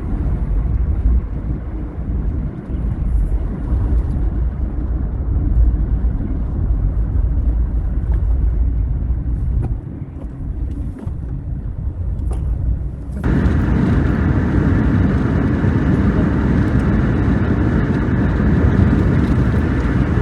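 Steady road and engine rumble inside a moving car. About thirteen seconds in it changes abruptly to a louder, fuller rush.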